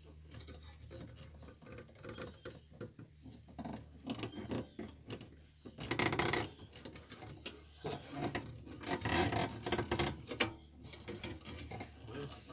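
Irregular clicking, rattling and scraping of a new Dietz Jupiter hurricane lantern's metal parts being handled and worked, still stiff from being brand new, with louder handling about six seconds in and again around nine to ten seconds.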